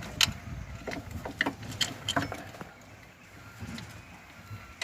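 Metal hand tools and car parts clinking and knocking in an engine bay as a power steering pump and its bracket are fitted: a run of sharp clinks, thinning out after about three seconds.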